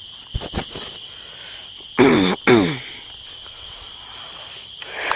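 Crickets chirring steadily in one high, unbroken tone. About two seconds in, two short vocal sounds drop in pitch, and there are a few knocks near the start.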